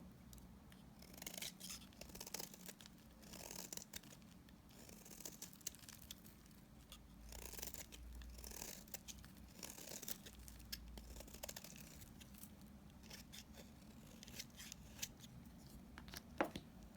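Dried soap remnants being cut with a blade: crisp crackling cuts in clusters every second or two, with one sharper click near the end.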